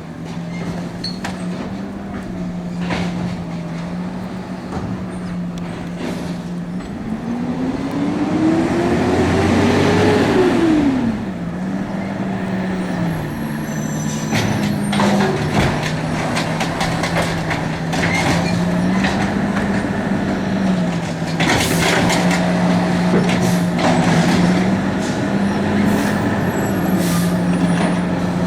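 Garbage truck engine running, its speed stepping up and down between two levels. About a third of the way in it revs up and back down once. Clanks and knocks come repeatedly through the second half.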